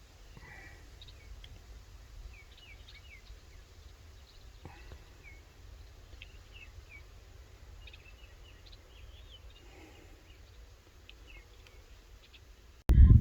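Small birds chirping and twittering in short scattered calls over a faint low rumble. Near the end a sudden loud low rumble cuts in.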